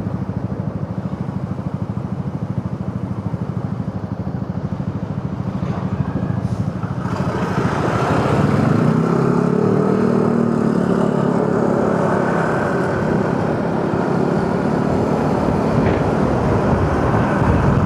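Motorcycle engine running under way, with road and wind noise from riding; the engine sound grows louder about seven seconds in.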